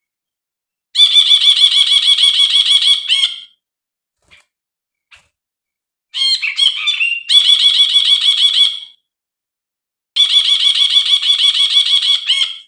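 Brinji (bulbul) song from a lure recording meant to coax a silent brinji into singing. It comes as three bouts of rapid repeated notes, about six a second, each lasting two to three seconds, with short pauses between.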